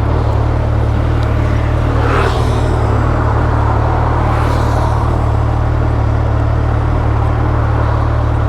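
Suzuki Hayabusa Gen 3's inline-four engine running steadily under a constant low hum, with wind and road noise on the rider's lav mic. Two brief whooshes come through about two seconds and four and a half seconds in.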